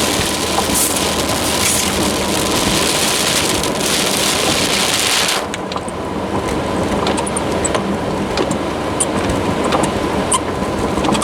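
Heavy rain drumming on a car's roof and windshield over the rumble of the car on the road. About halfway through the hiss drops away suddenly, leaving scattered drops ticking on the glass.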